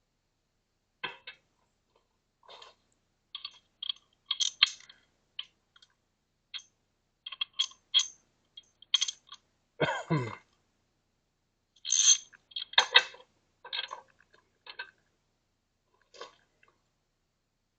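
Oil drain screw with a new crush washer being threaded back in and tightened by hand and tool on a Mercury 60 HP four-stroke outboard: scattered small metallic clicks and scrapes, with a louder, longer scrape about ten seconds in.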